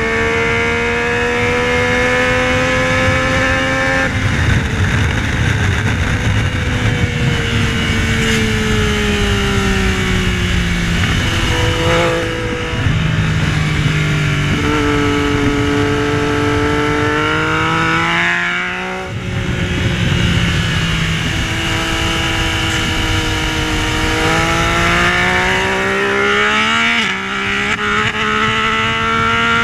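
Yamaha Tracer 900's three-cylinder engine heard onboard on track, its pitch climbing under throttle and stepping down at gear changes, with drops in revs under braking. A steady rush of wind and road noise runs underneath.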